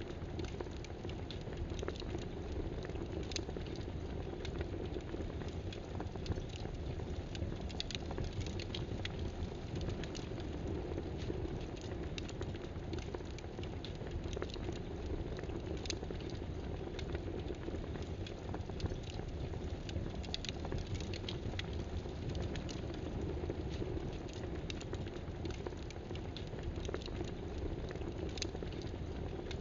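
A steady low hiss and rumble with irregular small clicks and crackles scattered through it.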